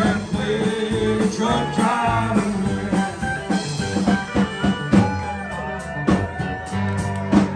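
Country band playing an instrumental passage with drums and sliding, bending guitar-like lines, the instrumental close of a honky-tonk truck-driving song.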